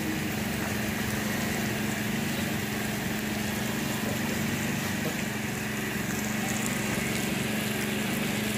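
Masala-coated chicken pieces frying in a large kadhai, a steady sizzle over a constant low mechanical hum.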